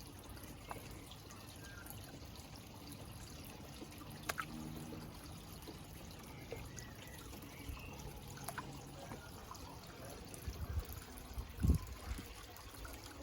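Water trickling and pouring steadily into a garden pond, as from a pond pump's return flow. A few low thumps come near the end.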